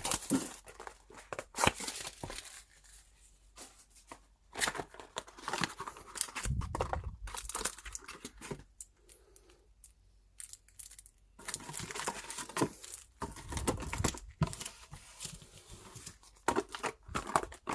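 Packaging of a Pokémon card Build & Battle box being torn open and handled: tearing and crinkling of wrap, cardboard and foil booster packs in irregular bursts, with a few soft thumps.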